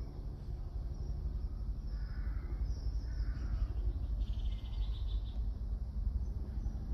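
Wild birds calling over a steady low rumble: two short falling calls, then a rapid trill about four seconds in.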